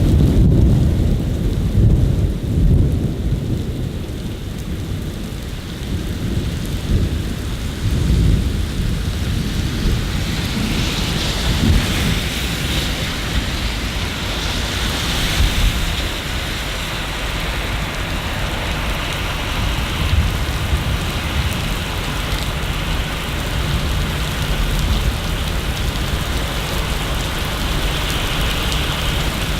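Steady rain with low thunder rumbling, strongest in the first few seconds and again around eight seconds in; the rain's hiss grows fuller from about ten seconds in.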